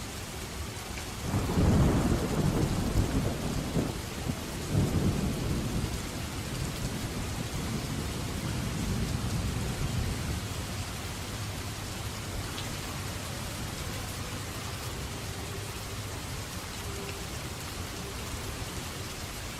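Steady heavy rain with a roll of thunder breaking in about a second in, swelling again around five seconds and rumbling away over the next few seconds.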